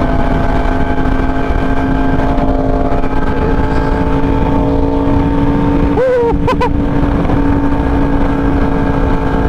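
2018 Yamaha R1M's inline-four engine running at a steady cruise, under heavy wind rush on the rider's microphone. A brief vocal sound comes about six seconds in.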